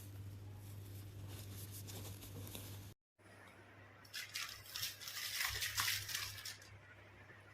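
Rustling and scraping handling noises over a steady low hum, cutting out briefly about three seconds in, then a louder stretch of brisk scratchy rustling about two seconds long.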